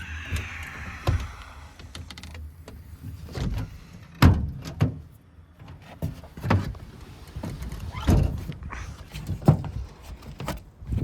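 A run of separate thuds and knocks, each about a second or two apart, with a short rustle at the start.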